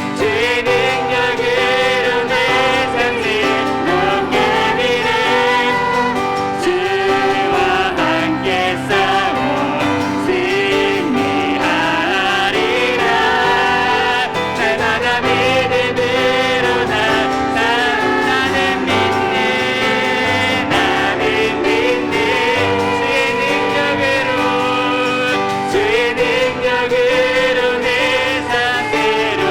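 Worship song with singing over piano accompaniment.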